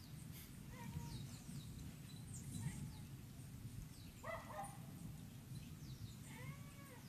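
A dog barking a few times, with birds chirping, faint over a low continuous rumble, the thunder-like rumbling of the volcanic eruption plume.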